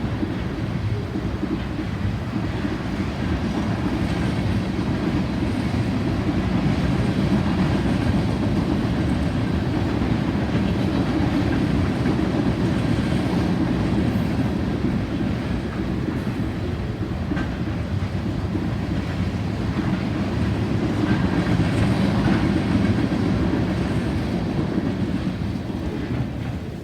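Railroad cars of a passing train rolling by on the track: a steady, low rumble of wheels on rail.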